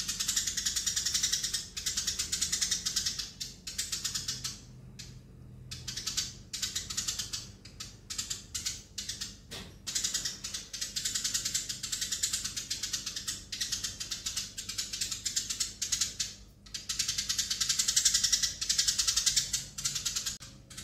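Eurasian tree sparrow chirping and chattering fast, in bouts of a few seconds with short pauses between them.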